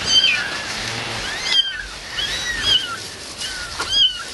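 Cats meowing repeatedly: about six short, high-pitched, rising-and-falling calls over a steady hiss.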